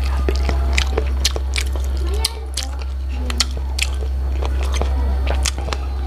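Close-miked mouth sounds of eating braised chicken feet: quick, irregular wet clicks, smacks and chewing. A steady low hum runs underneath.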